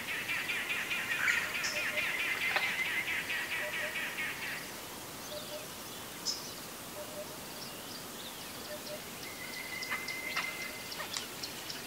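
Birds calling: a fast chattering call for the first four seconds or so, then a short steady whistle and a run of quick, high chirps near the end.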